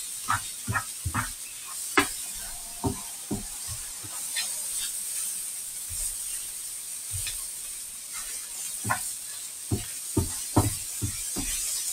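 Diced bacon and ham with onion and soy sauce sizzling in a frying pan, with a utensil knocking and scraping against the pan as it is stirred. The sizzle is a steady high hiss; the knocks come irregularly, loudest about two seconds in and in a cluster near the end.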